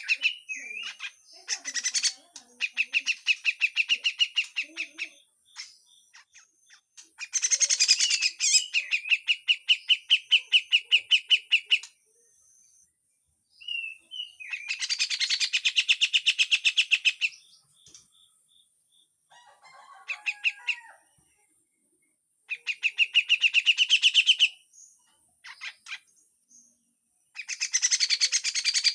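Grey-cheeked bulbul (cucak jenggot) singing its harsh 'besetan' chatter: fast runs of rough, rapidly repeated notes in bouts of a few seconds, about five bouts with short pauses between.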